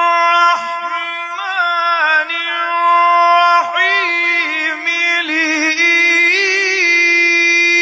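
A male Quran reciter chanting (tajwid) in a long, drawn-out melodic phrase, with quick ornamented turns in the middle, ending on a steady held note.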